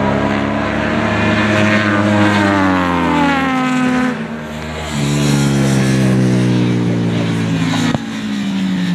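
Middleweight racing sport motorcycles going by one after another at race speed, each engine note falling in pitch as it passes. The sound eases briefly about four seconds in, then the next bikes come through.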